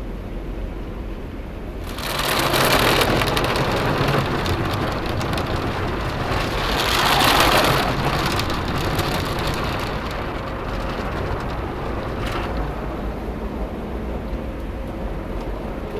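Tunnel car wash water jets spraying and drumming on the car's body and glass, heard from inside the cabin over a low machinery rumble. The spray swells about two seconds in, peaks again around seven seconds, then settles to a steadier wash.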